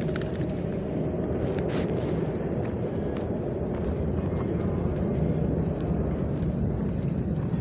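Steady low rumble of a train in the station, with scattered short clicks and knocks over it.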